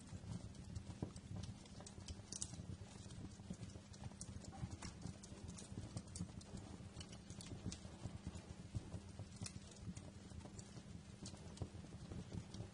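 Wood fire crackling: irregular, sharp pops and snaps over a steady low rumble of burning.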